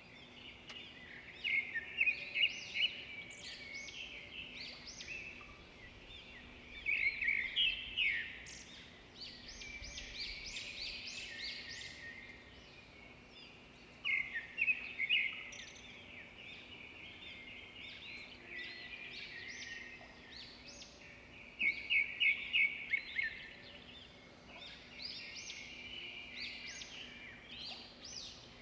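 Birds chirping and singing: varied short notes with several loud bouts of quick repeated chirps, over a faint steady hum.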